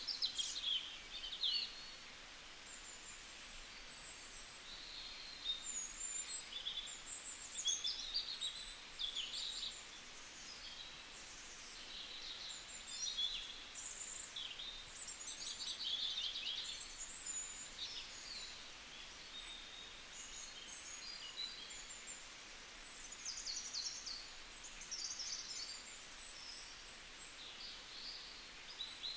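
Small birds chirping and trilling, many short high calls overlapping one after another, over a faint steady outdoor hiss.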